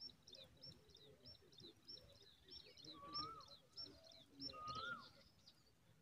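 Faint songbird calls: a high chirp repeated evenly about three times a second, joined twice by a lower whistle that rises and then drops.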